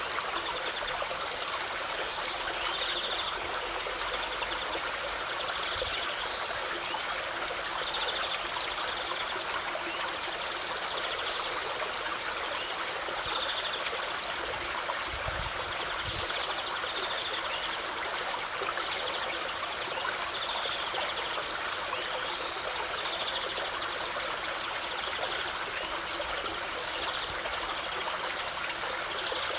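River water flowing steadily, an even, unbroken stream sound.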